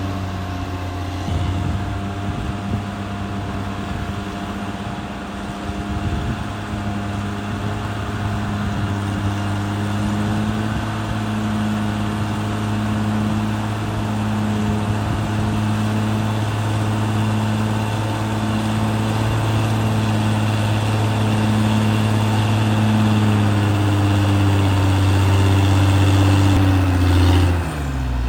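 CAT D6R XL bulldozer's diesel engine running steadily at work, with some irregular low knocking in the first several seconds. Near the end the engine note dips and then climbs again in pitch.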